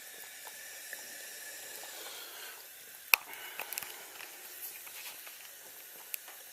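Tap water running in a thin steady stream, hissing into the sink. A sharp click comes about three seconds in, followed by a few lighter ticks, and there is another click near the end.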